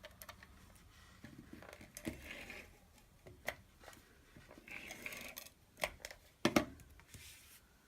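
Card stock and paper being handled on a craft table: soft rustles and scattered small clicks, with a sharper knock about six and a half seconds in.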